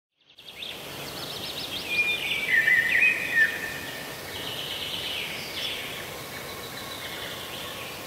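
Birds singing and chirping over a steady outdoor background hiss, loudest between about two and three and a half seconds in.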